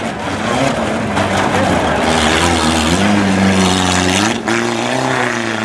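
Nissan pickup truck engine revving hard under load, its pitch climbing and falling as the throttle is worked, with a brief drop about four and a half seconds in.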